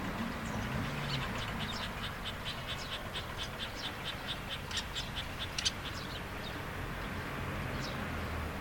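A bird calling in a quick series of short, high, repeated notes, about four or five a second for several seconds, then a few scattered notes. Underneath runs a steady low hum.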